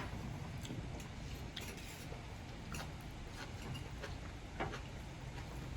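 Faint, scattered clicks and light clinks of cutlery against plates as people eat, over a low steady hum.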